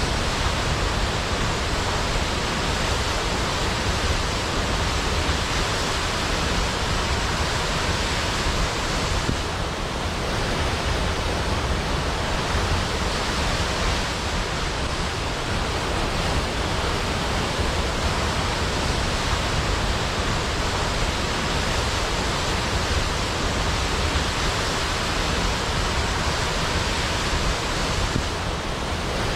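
Large waterfall: water pouring and splashing in a steady, even rush with no breaks.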